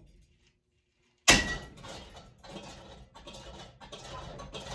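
Ceiling fan being smashed apart: after a moment of near silence, a sudden loud crash about a second in, then a run of clattering and rattling from the fan's parts and blade arms.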